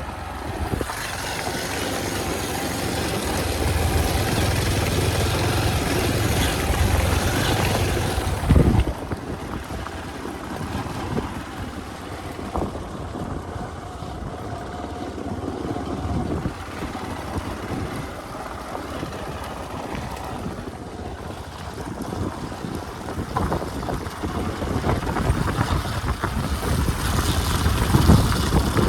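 Hero Xpulse 200 single-cylinder motorcycle engine running while riding off-road, with wind buffeting the microphone. The rumble is louder for the first eight seconds or so, eases off, then rises again near the end, with a few sharp knocks along the way.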